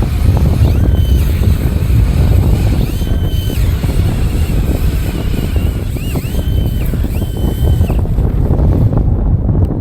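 Blizzard wind battering the microphone with a heavy rumble, broken by several short high whistles that rise in pitch at their start and hold for about half a second to a second each.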